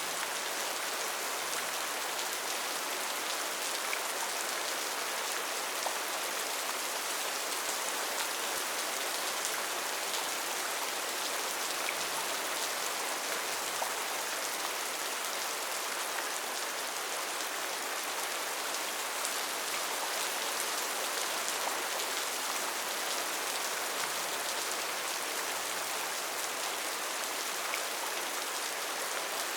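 Steady rainforest rain: an even, dense hiss of countless drops, with the odd sharper drop tick standing out.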